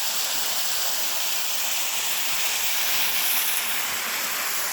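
Chamberlain Creek waterfall heard up close: a steady rushing hiss of falling water that does not change.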